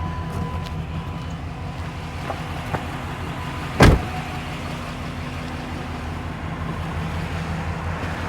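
Pickup truck engine idling steadily, with a single loud thump about four seconds in.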